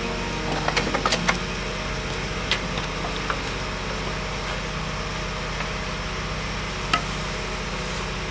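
An engine running steadily with an even low pulse, and a few sharp knocks and clicks over it: a quick cluster about a second in, then single ones a little later and near the end.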